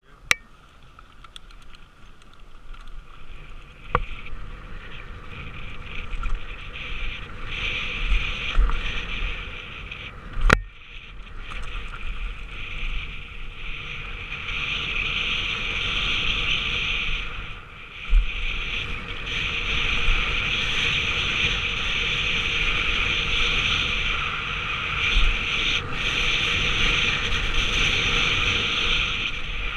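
Wind rushing over a helmet-camera microphone together with mountain bike tyres running on a dirt trail, growing louder over the first fifteen seconds, with three sharp knocks from the bike hitting bumps.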